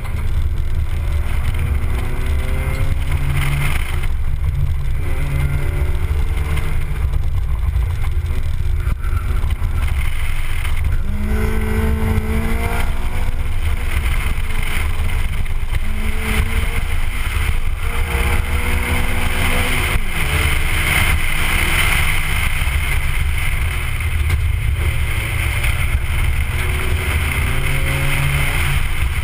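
A Honda Civic EG8's naturally aspirated D15 single-cam four-cylinder engine revving up and falling back again and again as the car accelerates and slows between corners. It is heard from outside the car, with a heavy wind rumble on the microphone.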